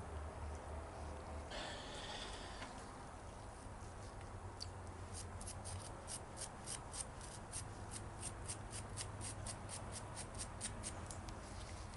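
Small hand work at the workbench: a brief rustle, then a long even run of light, sharp clicks or strokes, about four a second.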